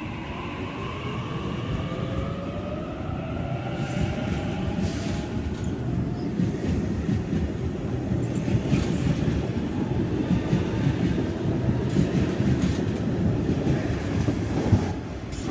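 Sydney Trains Waratah (A set) electric train pulling away from the platform: its traction motors give a whine of several tones that rises in pitch over the first several seconds as it accelerates, over the rumble of wheels on rails. A couple of sharp knocks come near the end.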